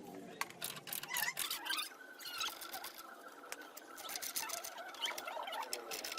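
Irregular small clicks and taps of hand tools working on metal parts, with a few brief squeaks in the first couple of seconds.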